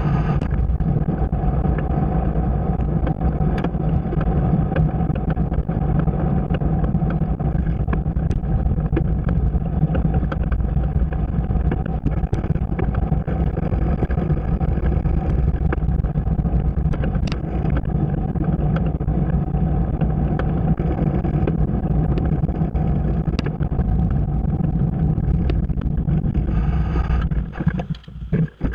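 Steady, loud running noise of a bike in motion, with a strong low rumble. About 27 s in, it drops away and becomes choppy and uneven.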